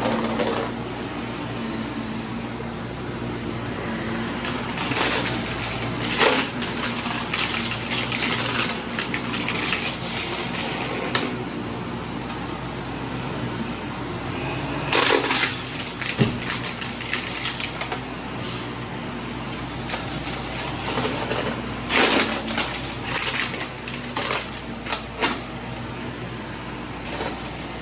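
Vacuum cleaner running steadily while picking up spilled debris, which clatters and rattles through it in short spells, most strongly about halfway through and in a cluster near the end.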